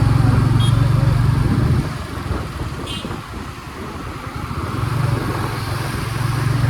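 Motorcycle engine running while riding in city traffic; it eases off about two seconds in and picks up again near the end.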